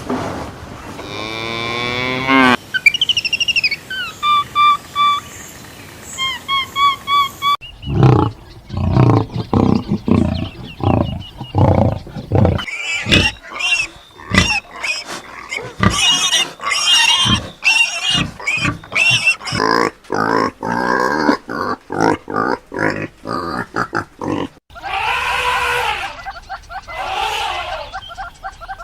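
A string of different animal calls cut one after another: a few seconds of repeated short rising chirps, then a long run of quick, choppy calls, then several longer drawn-out calls near the end.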